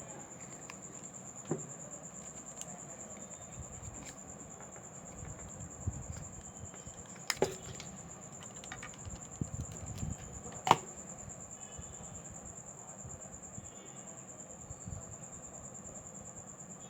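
A few sharp clicks and small taps of tools and phone parts being handled, over a steady high-pitched whine; the two loudest clicks come about halfway through and a few seconds later.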